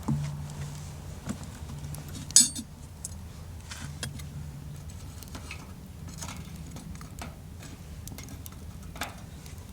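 Light metallic clicks and clinks of camp cookware and utensils being handled, with one sharp clink about two and a half seconds in, over a faint low hum.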